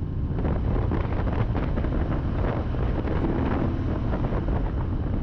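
Wind buffeting a camera microphone on a moving motorcycle, over a steady low rumble of engine and road noise.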